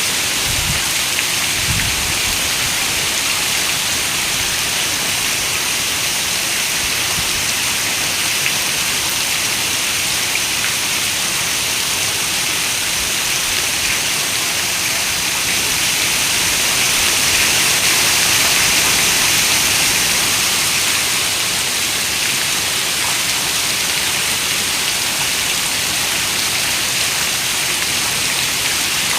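Heavy rain pattering steadily on a window, a dense even hiss of drops that swells a little louder about two-thirds of the way through. Two brief low thumps sound near the start.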